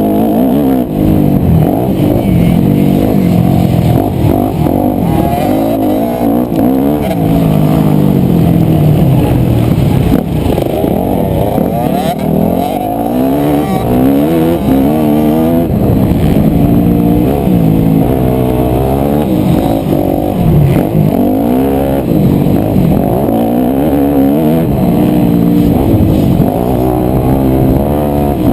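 Yamaha YZ250F 250cc four-stroke single-cylinder motocross engine, loud throughout, revving up and backing off again and again as the bike accelerates, shifts and slows.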